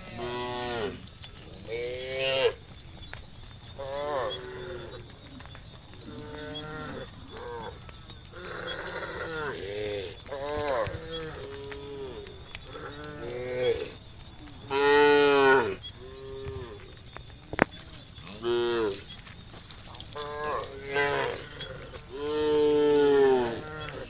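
A herd of cattle mooing, many separate calls from several cows one after another, some short and some long, the longest and loudest about fifteen seconds in and near the end.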